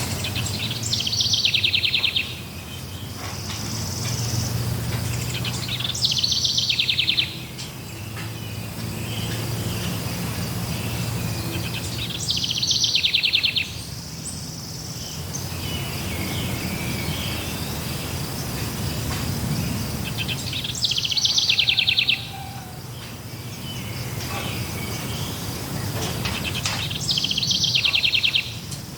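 A songbird repeating a short, fast trilled song phrase about every six seconds, five times in all, over a steady high-pitched insect drone and a low, even background rumble.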